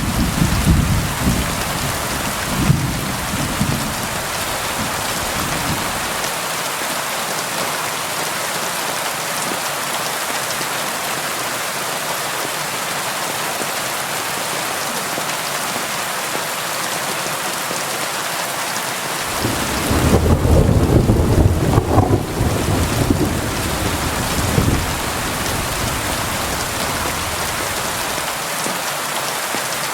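Steady rain on a window. Low thunder rumbles through the first few seconds and again for about five seconds around two-thirds of the way through, where it is loudest.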